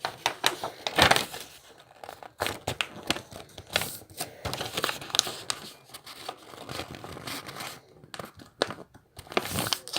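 Sheet of paper rustling and crinkling as it is folded and creased by hand, in irregular bursts of crackle.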